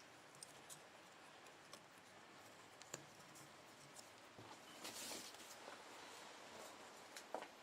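Near silence with faint scattered clicks and ticks, a brief rustle about five seconds in, and a couple of sharper clicks near the end.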